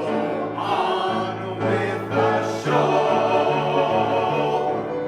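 A choir singing a song with instrumental accompaniment, voices holding wavering notes over a bass line that steps between held notes.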